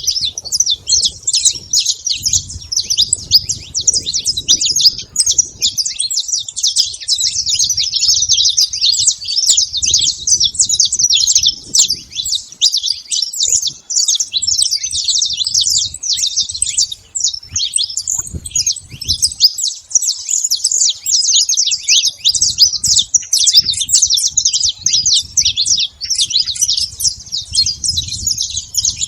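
Saffron finch (canário-da-terra) singing: a fast, nearly unbroken stream of high, sharp chirps and trills.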